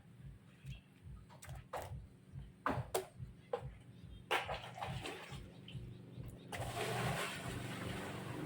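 Washing machine running with a low, pulsing hum and scattered knocks and clicks. About six and a half seconds in, water starts rushing steadily through the machine.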